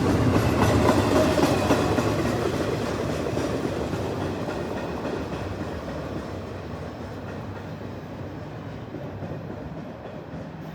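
Freight train cars rolling past on the rails, the rumble and wheel clatter fading steadily as the train moves away.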